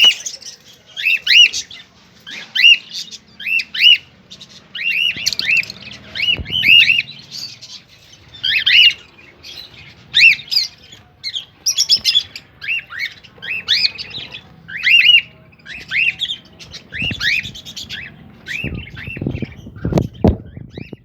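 A bird calling over and over: short, arched chirps in quick groups of two to four, about once a second. A few low knocks come near the end.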